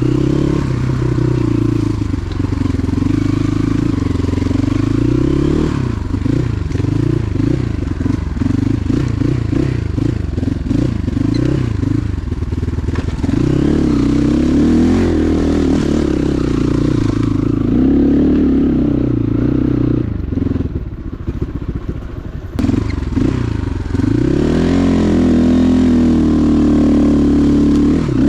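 Motorcycle engine revving up and down over and over as it is ridden. The engine drops back to a quieter, lower note for a few seconds past the middle, then picks up again suddenly.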